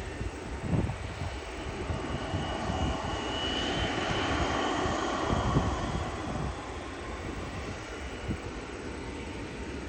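Jet airliner passing low overhead: its engine noise swells to a peak with a thin high whine about four seconds in, then eases off. Gusts of wind rumble on the microphone.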